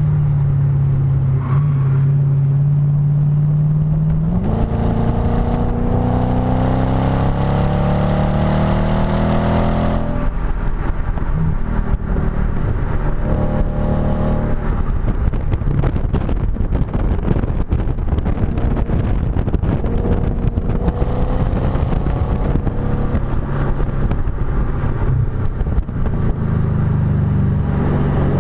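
Audi B7 S4's 4.2-litre V8 through a STaSIS aftermarket exhaust on track: the note holds steady, then rises under acceleration for about five seconds and cuts off sharply. A long, rougher stretch off the throttle follows, with wind buffeting the microphone, before the note starts building again near the end.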